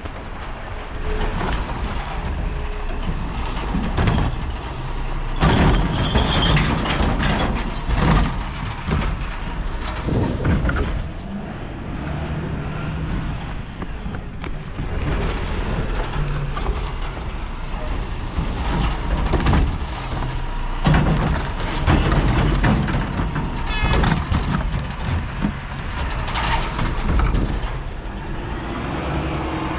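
Mack LR low-rider recycling truck with a Heil body, its diesel engine running, with air brake hisses, repeated clanks and knocks, and high squeals near the start and again about fifteen seconds in.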